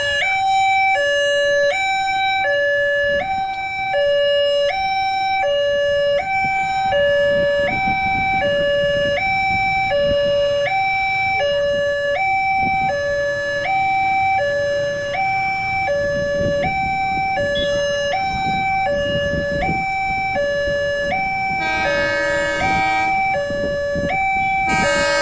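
Railway level-crossing warning alarm sounding a steady two-tone hi-lo, about one cycle a second. A train horn blows near the end as the train approaches.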